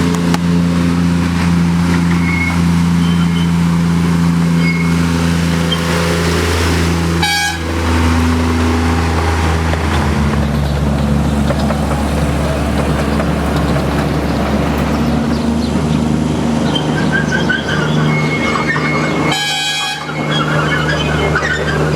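Vauxhall petrol engine of a miniature railway locomotive with hydraulic drive, running steadily. It settles to a different pitch about 10 seconds in, with two brief sharp sounds about 7 and 19 seconds in.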